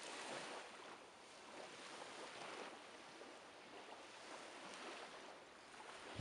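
Faint, steady rush of water noise that swells and eases gently every second or two.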